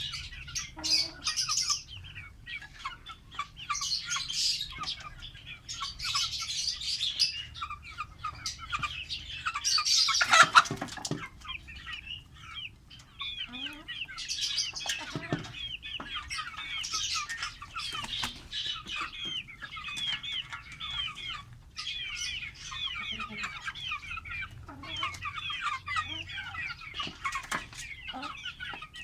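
Lovebirds chattering: a steady stream of rapid, high, short chirps, with one louder burst about ten seconds in.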